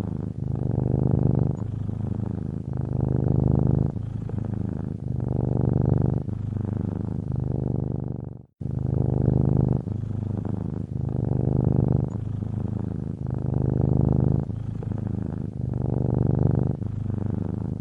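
Domestic cat purring steadily, a low buzzing rumble that pulses with its breathing in alternating in- and out-breath phases of about a second each. The purr drops out for an instant about halfway through, then resumes.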